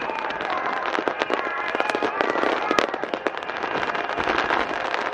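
Aerial fireworks bursting in rapid succession: a dense, continuous crackling and popping of many small bangs, with one sharper bang about three seconds in.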